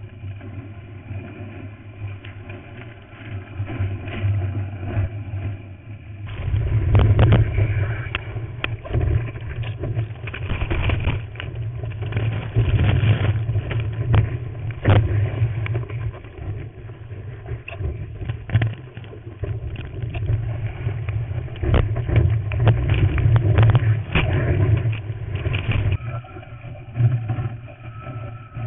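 Water rushing and buffeting against a GoPro's housing while surfing, a heavy rumble full of knocks and splashes, growing louder and rougher about six seconds in.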